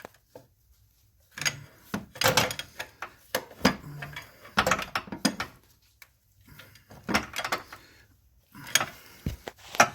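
A wrench knocking and scraping against the alternator and its mounting as it is levered in to pry the alternator down, in a run of uneven metal clanks and rattles.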